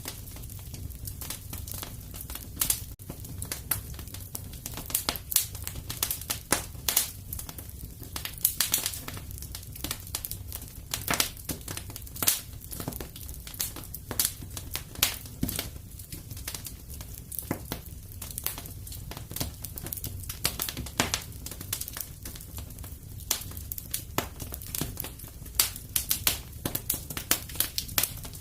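Wood fire in a fireplace crackling and popping, with irregular sharp snaps several times a second over a steady low rumble.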